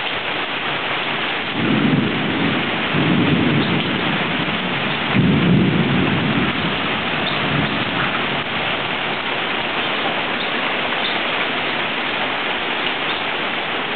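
Heavy rain falling steadily in a thunderstorm, with thunder rumbling in two long swells, about two seconds in and again about five seconds in, the second the louder.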